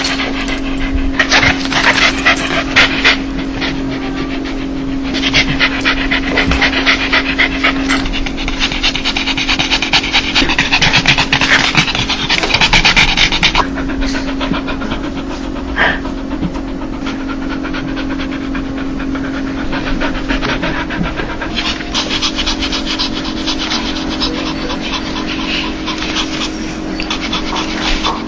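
A dog panting fast in quick 'heh-heh-heh' breaths, the happy, excited panting known as a dog's laugh. The panting comes in louder spells in the first half and again near the end.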